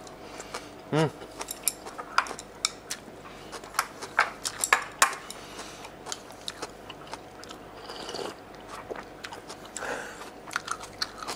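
Close-miked chewing and biting of a mouthful of vegetables, with many short wet clicks and crunches. There is a brief hum about a second in.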